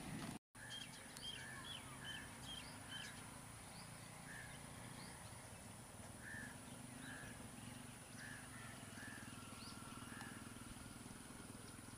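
Birds calling: a quick run of short repeated calls about a second in, then scattered calls, over a faint steady low hum.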